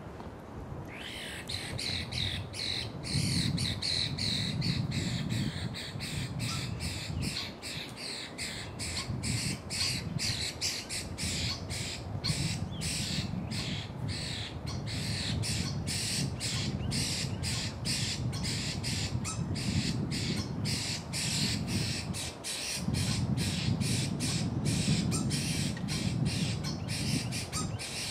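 A bird squawking over and over in short, harsh calls, about two or three a second, throughout, during a mating struggle.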